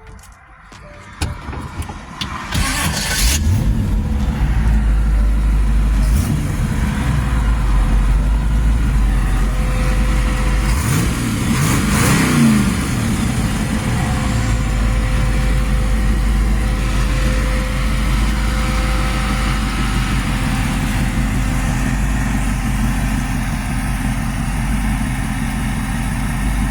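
Hot rod engine starting about a second in, then idling steadily, with the revs blipped up and back down briefly a few times.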